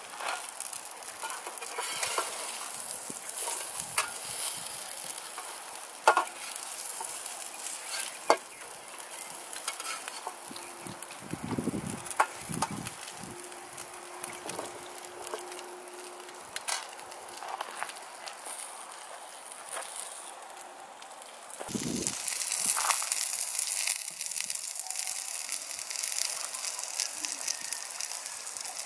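Food sizzling as it fries: a steady crackling hiss with scattered sharp clicks and a few low thumps. The sizzle gets louder about three-quarters of the way through.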